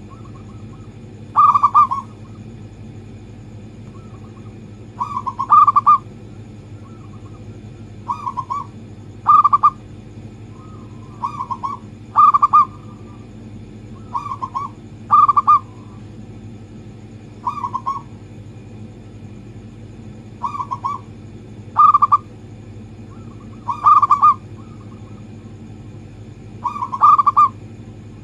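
Zebra dove (perkutut) cooing: short, loud coo phrases repeated every two to three seconds, over a steady low hum.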